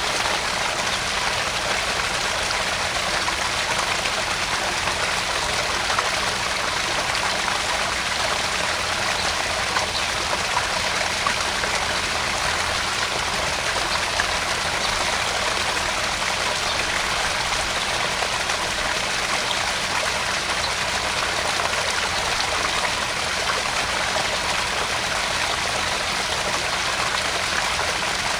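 Small backyard garden-pond waterfall: water spilling and trickling steadily into the pond, with small splashes.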